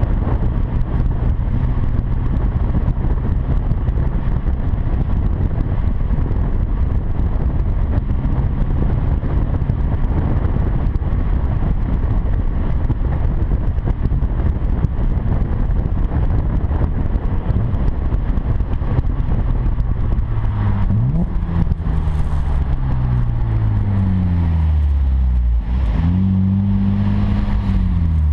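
2007 Acura TL V6 running through a quad-tip catback exhaust, with a steady low drone under rushing noise while cruising. About twenty seconds in, the revs climb and fall several times as the car accelerates and lets off.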